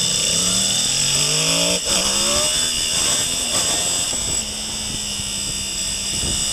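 Sport motorcycle engine heard from the bike itself, accelerating hard with the revs rising. About two seconds in there is an upshift from first to second, then the revs climb again. From about four seconds in the engine holds steadier revs through a corner.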